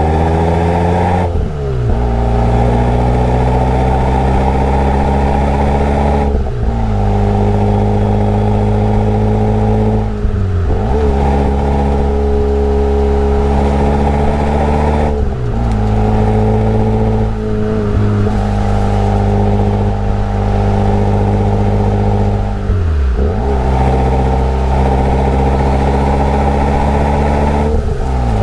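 Daihatsu Copen L880K's turbocharged 660 cc four-cylinder engine and exhaust pulling hard through the gears. It runs loudly for a few seconds at a time, broken by brief dips in pitch at each gear change, about seven times.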